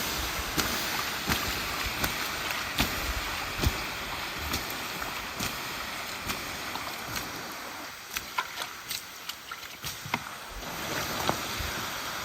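Sawdust fuel briquettes burning in a fire, with a steady rushing hiss and irregular sharp crackles. The hiss drops a little about two-thirds of the way through, while a quick run of crackles stands out.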